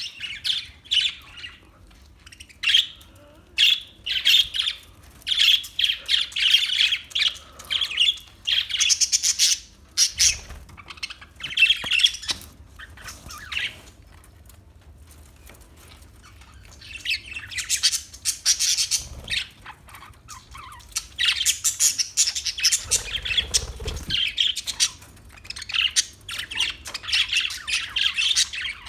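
Parakeets chirping and squawking in rapid, busy bouts, with a lull of a few seconds about halfway through.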